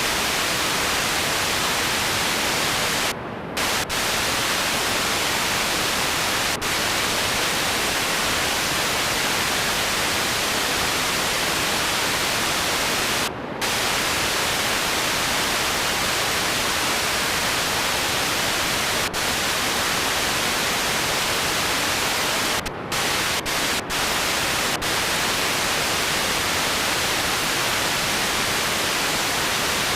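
Loud, steady static hiss with no music or voices, briefly cutting out a few times. It sounds like an audio signal fault rather than a sound in the room.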